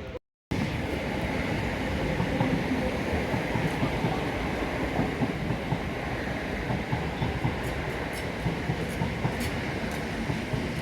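A train running past on the rails, a steady rumble of wheels and running gear. The sound drops out for a moment right at the start.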